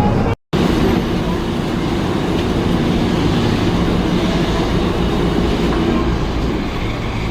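Steady rumble of a moving vehicle, with a brief cut to silence just under half a second in.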